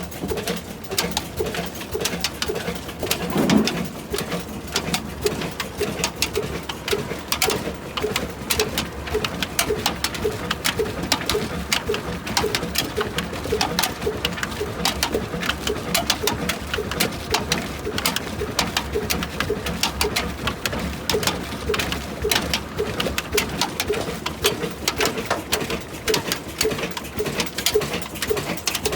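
A 75-year-old stationary 'kala' engine running steadily, a slow even beat of about two to three exhaust pulses a second with a clattering tick on each. A short louder thump comes about three and a half seconds in.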